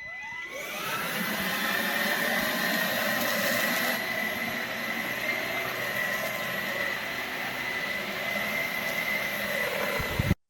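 Cordless stick vacuum motor spinning up with a rising whine, then running steadily with a high-pitched whir. It cuts off suddenly near the end, just after a brief louder burst.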